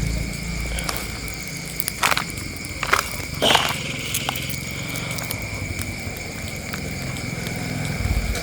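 Outdoor night ambience: a steady high-pitched tone and a low hum run throughout, with scattered small crackles and three sharp knocks between about two and four seconds in.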